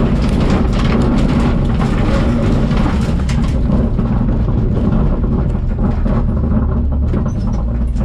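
Citroën Saxo VTS rally car running, a loud steady low rumble with crackling higher up that thins out about halfway through.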